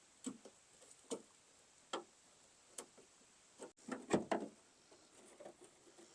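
Faint, scattered clicks and light metal knocks of a screwdriver working old screws out of a pickup tailgate, with a short cluster of louder knocks about four seconds in.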